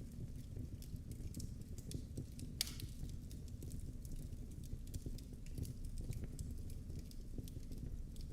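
Wood fire crackling in a fireplace: irregular small snaps and pops over a low steady rumble, with one louder pop about two and a half seconds in.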